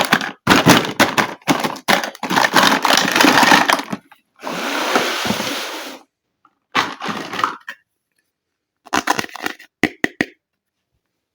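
Crackling and crinkling of toy packaging being handled and opened, in several bursts with pauses between, including a steady rustle of about a second and a half and ending in a cluster of sharp clicks.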